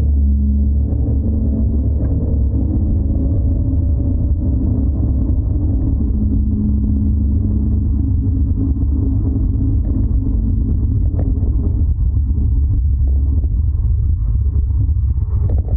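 Suzuki Every DA64V 4WD van driving with a loud, steady low droning rumble ("go-go"): the abnormal suspension noise the owner is tracking down.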